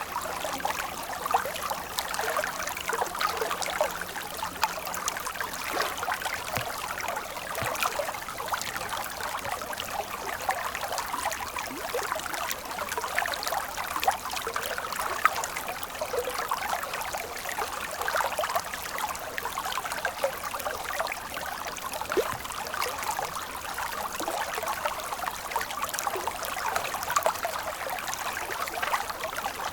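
A stream of water flowing and trickling: a steady splashing rush with many small drips and plops in it.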